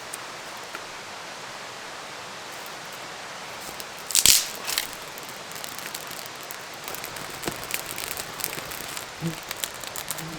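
Campfire catching: a brief loud rustle about four seconds in, then crackling and popping that grows busier from about seven seconds in, over a steady hiss.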